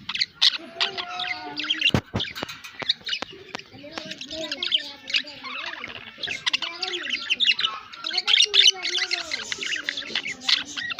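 Budgerigars chattering and warbling: a continuous stream of rapid high chirps over a wavering, speech-like warble, with a sharp click about two seconds in.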